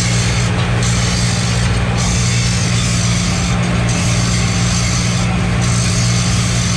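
Workshop machinery running steadily: a low, constant hum under a broad hiss, with the hiss dipping briefly every second or two.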